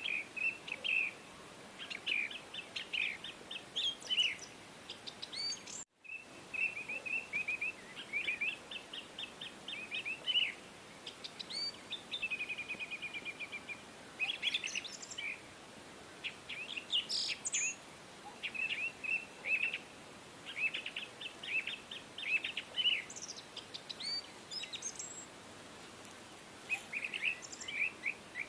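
Birds chirping and calling in a steady stream of short high chirps, with a rapid trill about twelve seconds in; the sound drops out for an instant about six seconds in.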